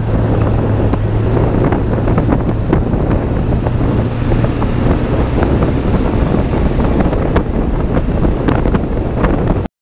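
Truck engine running steadily under load with tyre and road noise from a dirt road, heard from inside the cab, with scattered clicks and rattles of gravel and loose gear. It cuts off suddenly near the end.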